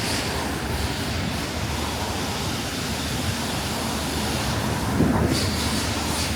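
Steady low rumble with hiss from the city surroundings, with a brief louder knock about five seconds in.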